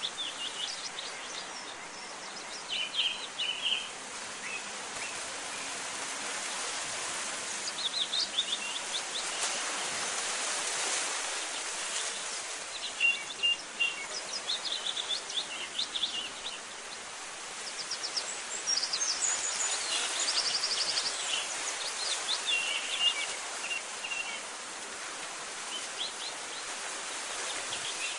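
Birds chirping in short, scattered phrases over a steady hiss of outdoor background noise.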